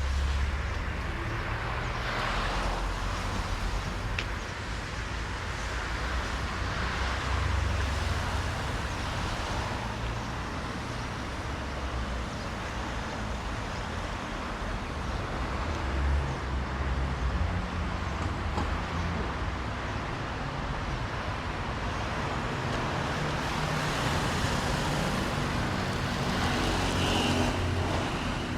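Street traffic: cars passing one after another over a steady low rumble, with tyre hiss on wet road surfaces that swells and fades as each vehicle goes by.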